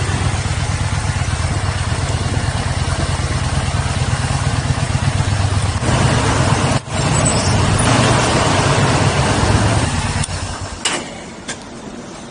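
Yamaha SCR950's air-cooled V-twin engine running with an even low pulse. It gets louder about six seconds in, then stops near the end.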